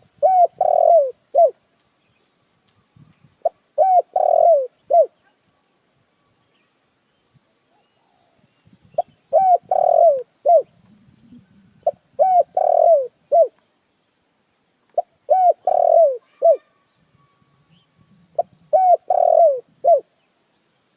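Spotted dove cooing: six phrases a few seconds apart, each a few falling coos with a longer drawn-out coo in the middle and a separate short coo at the end.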